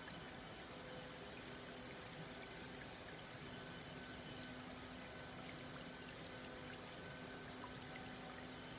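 Small woodland brook flowing gently, its water babbling and trickling steadily.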